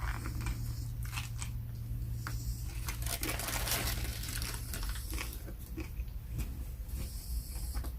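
Close-mic chewing and crunching of a Subway sandwich, with scattered wet clicks of the mouth and a brief rustle about three seconds in, over a steady low hum.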